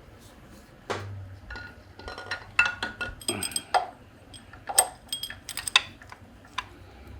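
Metal engine parts and hand tools clinking and clattering as they are handled and set down, a string of sharp knocks, some with a brief metallic ring, starting about a second in.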